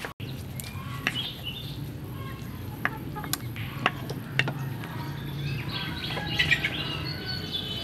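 Birds chirping in the background, with a cluster of chirps about six seconds in, over a steady low hum. A few sharp clicks are heard.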